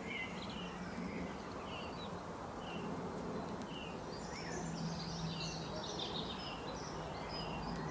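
Small birds chirping and twittering in short, scattered calls, busiest about halfway through, over a steady outdoor background hiss with a faint low hum.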